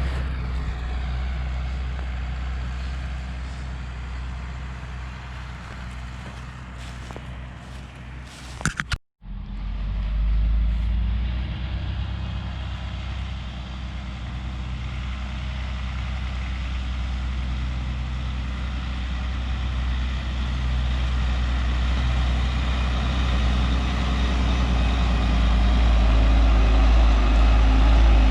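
Heavy diesel farm machinery engine running steadily. The sound cuts out for a moment about nine seconds in, then resumes and grows louder toward the end.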